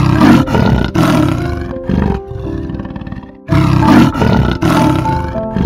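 A big cat's roaring call in two loud bouts, the first about two seconds long and the second starting about three and a half seconds in, over background music.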